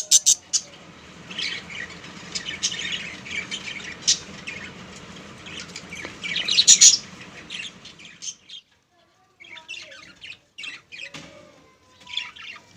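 Budgerigars chirping and squawking in many short, sharp calls, thickest and loudest in the first eight seconds, then fewer calls with short gaps between them.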